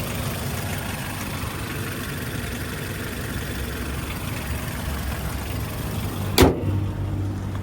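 Toyota 2RZ-FE 2.4-litre four-cylinder engine idling steadily. A single loud slam comes about six seconds in.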